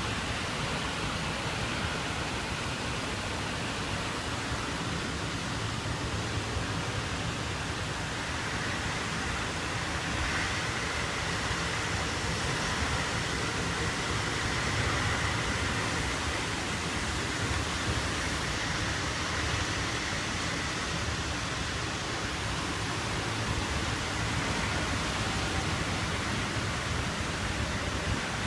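Rain falling steadily: an even hiss.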